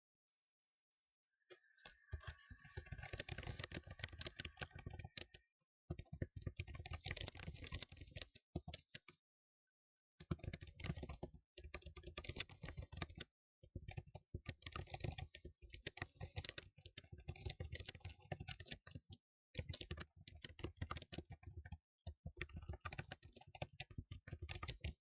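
Fast typing on a computer keyboard, starting about two seconds in: dense runs of key clicks in bursts of a few seconds each, with short pauses between the bursts.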